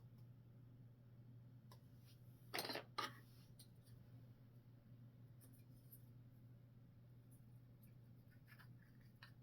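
Faint clicks and rustles of small parts being handled, over a steady low hum. There are two short, louder rubbing sounds about two and a half and three seconds in.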